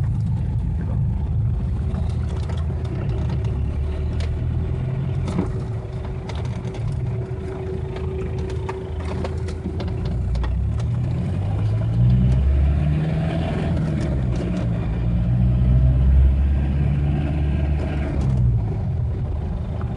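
Turbo-diesel engine (Mitsubishi 4D55 2.3 litre, swapped into a Ford Ranger) heard from inside the cab while driving, with road noise. Its note rises twice in the second half as the truck accelerates.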